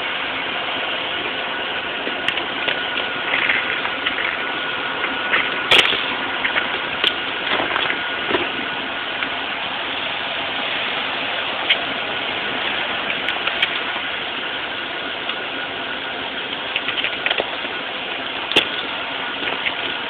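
Steady hum of an idling vehicle engine, with scattered sharp clicks and knocks over it, a cluster in the first half and a few more near the end.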